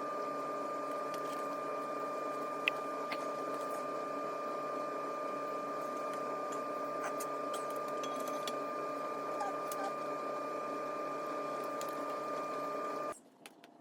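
Steady mechanical hum with a few light clicks, cutting off suddenly near the end.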